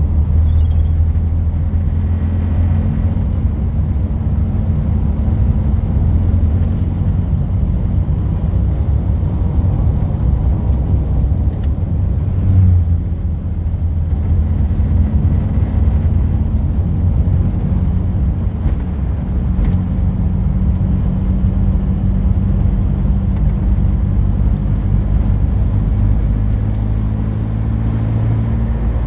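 Classic car's engine and road noise heard from inside the cabin while driving: a steady low engine note over tyre rumble, which shifts briefly about twelve seconds in.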